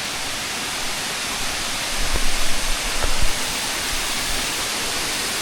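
Waterfall rushing, a steady wash of falling water, with a few low thumps a couple of seconds in.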